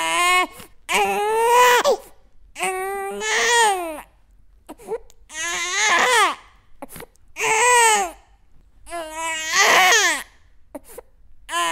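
Baby crying in repeated wails, about six in a row, each cry rising and then falling in pitch, with short pauses for breath between them.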